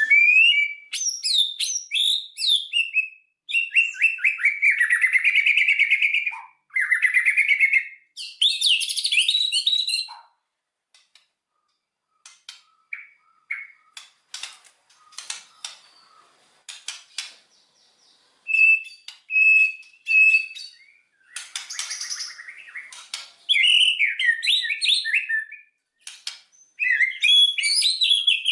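White-rumped shama (murai batu) singing a loud, varied song of whistled phrases, rapid trills and pitch glides. In the middle the song breaks into a sparser run of short clicks and chips, then picks up again.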